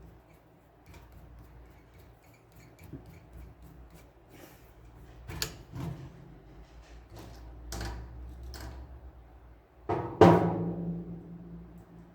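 Scattered clicks and knocks of parts being handled, then a loud clattering knock with a ringing tail about ten seconds in, over a low steady hum.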